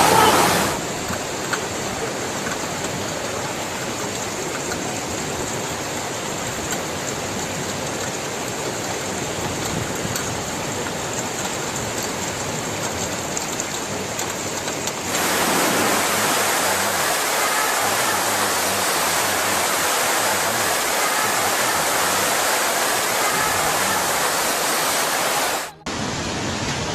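Floodwater rushing, a steady loud noise of flowing water. It turns louder and brighter about halfway through and breaks off briefly near the end, where the footage cuts.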